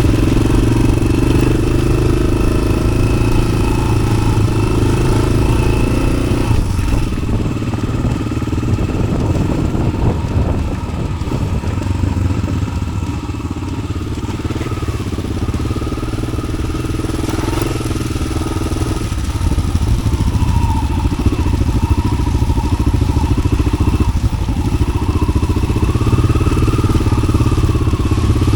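Yamaha XT600's single-cylinder four-stroke engine, fitted with an aftermarket Arrow exhaust, running steadily as the bike is ridden off-road, with some clatter. The revs drop about seven seconds in and build up again near the end.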